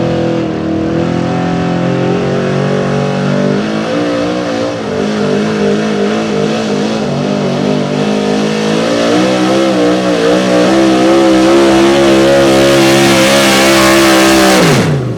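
Street-gas 4x4 pickup's gasoline engine running hard at high revs while pulling the sled, its pitch shifting several times and a rising hiss building late in the run. Near the end the throttle is cut and the engine note falls away sharply.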